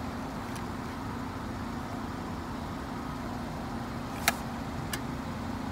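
A car engine idling steadily, with a sharp click about four seconds in and a lighter click half a second later.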